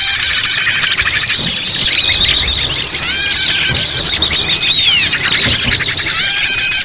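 A loud, dense chorus of many small birds chirping and trilling at once, their quick high calls overlapping without a break.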